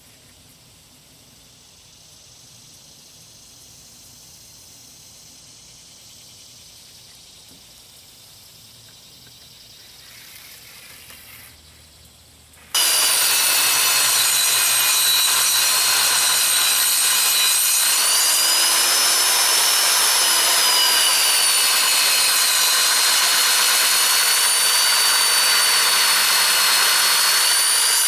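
Quiet for the first dozen seconds, then a power saw starts abruptly about 13 seconds in and runs loud and steady with a wavering high whine, cutting through plywood.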